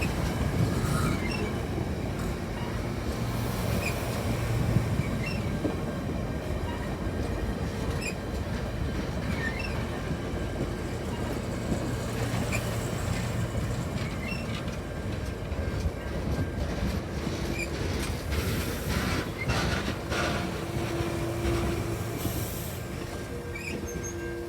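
A train rolling past on the tracks: a steady rumble of cars and wheels with scattered clicks, and a faint squealing tone from the wheels in the last few seconds.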